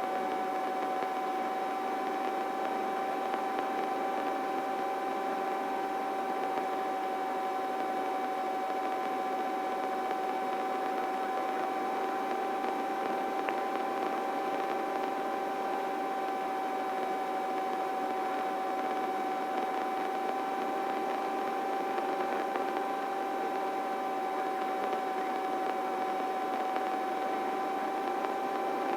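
Helicopter in cruise heard through the cockpit intercom: a steady whine with one strong held tone and fainter overtones over a hiss, with the deep rotor thump left out.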